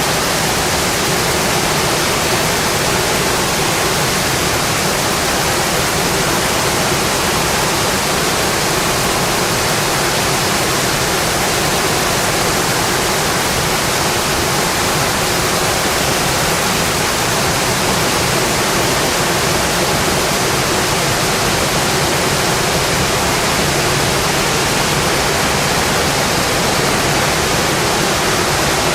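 Steady heavy rain on a metal roof: a dense, even hiss that holds unchanged throughout.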